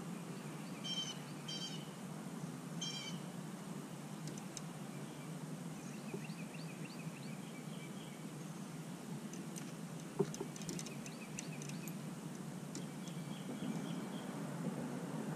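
Birds calling: three harsh calls in the first three seconds, then runs of quick high chirps, over a steady low rumble. A single sharp knock about ten seconds in.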